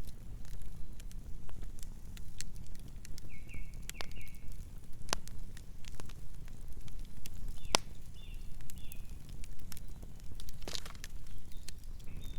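Campfire crackling: wood burning with irregular sharp pops and snaps over the low, steady rumble of the flames.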